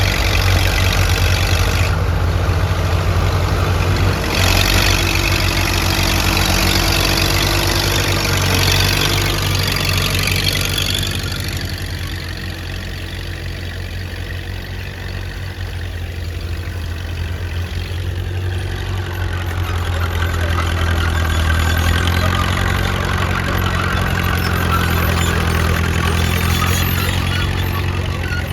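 Antique tractor engine running steadily. It grows quieter about twelve seconds in and louder again from about twenty seconds.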